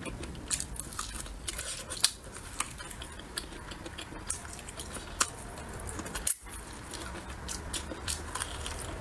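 Close-up mouth sounds of a person chewing braised meat: wet smacks and small clicks over and over, with another bite taken near the end.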